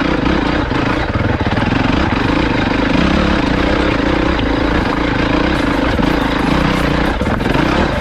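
Off-road vehicle engine running hard at steady high revs, loud and rough, with no letup.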